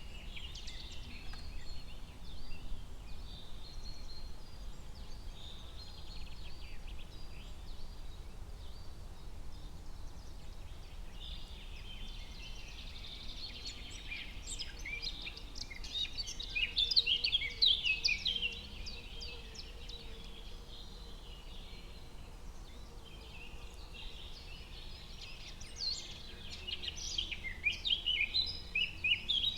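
Forest ambience of several songbirds chirping and trilling over a faint steady low rumble, with two dense flurries of chirping, one near the middle and one near the end.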